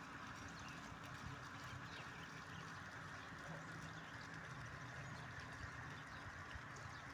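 Faint chirps of small birds over a steady hiss of outdoor background noise.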